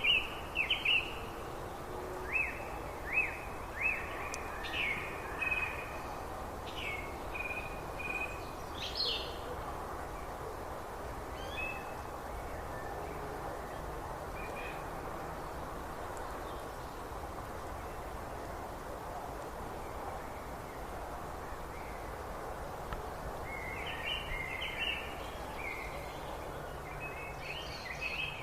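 Small songbirds chirping in quick series of short high notes over a steady background rush; the chirping is busy through the first third, thins out, and picks up again near the end.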